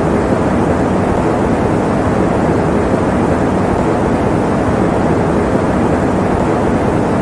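Electric fan running steadily: an even, unbroken rush of air noise, deep and muffled in character, with no hum or clicks and no change in level.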